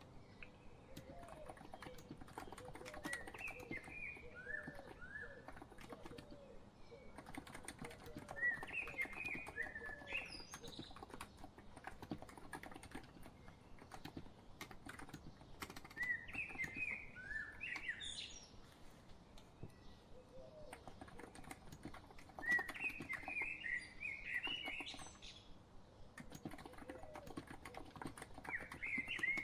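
Steady typing on a COX Empress electro-capacitive (contactless) keyboard, a dense patter of soft key presses, mixed with bird song: short chirping, warbling phrases about every six seconds.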